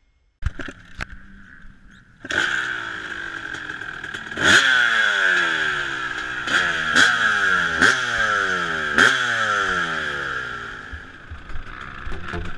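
A few clicks and knocks, then a motocross bike's engine catches about two seconds in. It is blipped in about five sharp throttle revs, each rising quickly and falling back toward idle, before settling lower near the end.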